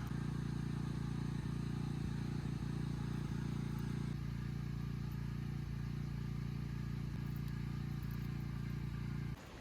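A steady low mechanical hum that cuts off suddenly near the end.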